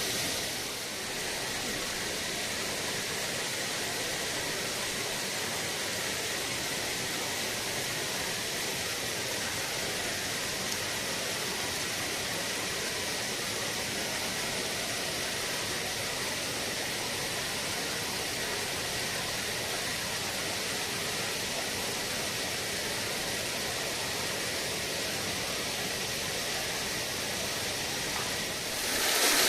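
Waterfall's rushing water: a steady, hissing roar with most of its energy in the high range, growing louder right at the end.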